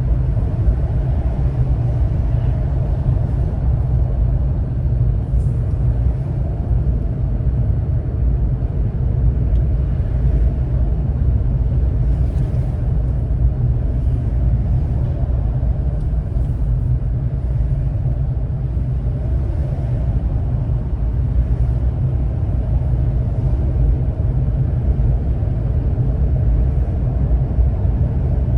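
Car on the move: a steady low rumble of engine and road noise, with no revving or gear changes.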